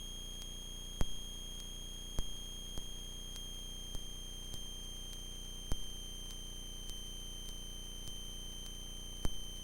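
A steady high-pitched electronic whine over a low hum in the cockpit audio feed, broken by a few sharp clicks and pops, four of them louder than the rest.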